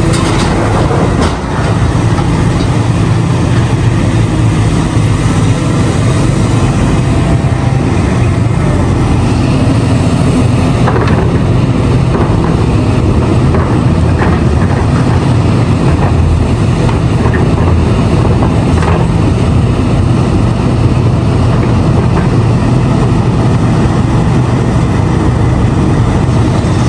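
Large hydraulic mining excavator's diesel engine running steadily under load, with a few faint knocks through it.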